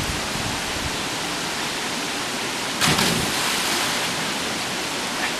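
Waterfall pouring into a creek pool, a steady rushing noise, with a brief louder rush about three seconds in.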